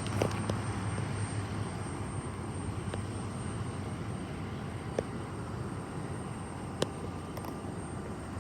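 Pilatus PC-12/45's single Pratt & Whitney PT6A turboprop fading into the distance after takeoff: its low hum dies away early on, leaving a steady rushing noise. Two short sharp clicks come about five and seven seconds in.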